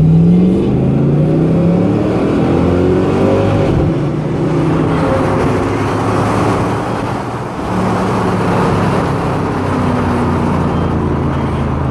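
V8 car engine at full throttle in a drag race, its pitch climbing and dropping back at each upshift for the first four seconds. It then runs on at a steadier pitch under rushing wind and road noise.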